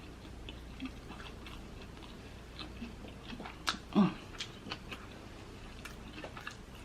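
Close-miked chewing of a soft, juicy street taco: a run of small wet clicks and mouth smacks, with a louder mouth noise about four seconds in.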